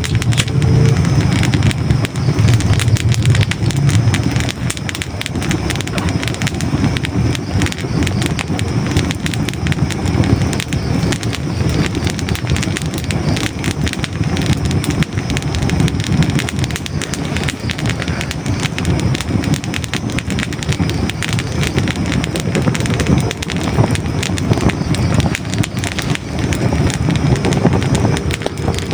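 Hardwood logs burning in a fireplace: a steady low rush of flames with dense, continuous small crackles and pops.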